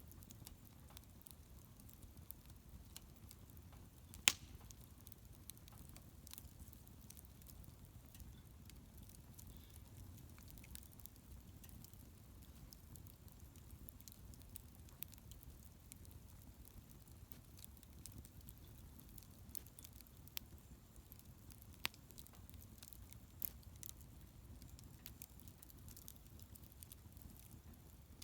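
Wood bonfire crackling faintly, with scattered sharp pops, the loudest about four seconds in and a few more in the second half, over a low steady rumble.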